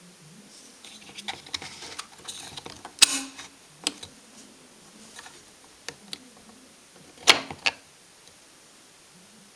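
Handling noises from work on a car door's lock mechanism: scattered light clicks and rustles, with a few sharp knocks, the loudest about three seconds in and a close pair a little after seven seconds.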